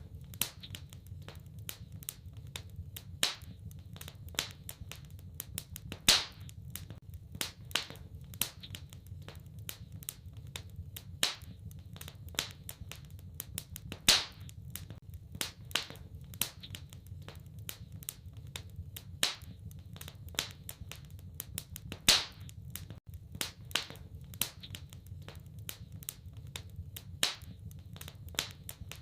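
Wood fire crackling in a fireplace: a dense run of small sharp crackles and louder pops every several seconds, over a steady low rumble of the flames.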